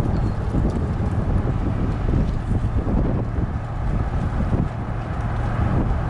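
Strong wind rumbling and buffeting on the microphone, over the low drone of a vehicle.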